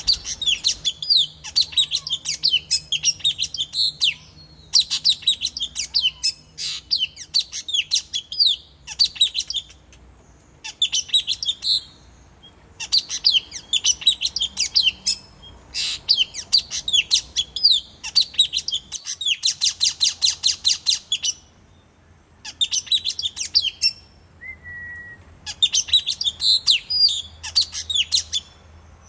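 Blue-crowned hanging parrots calling: rapid, high-pitched, sharp chirps in bouts of one to three seconds, separated by short pauses.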